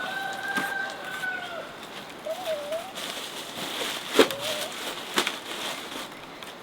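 A rooster crows once, a long call of nearly two seconds, followed by two short calls and several sharp knocks, the loudest about four seconds in.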